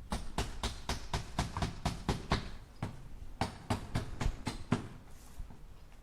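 Hammer striking nails into wood in quick light blows, about five a second. There are two runs with a short pause in between, and the blows stop about five seconds in.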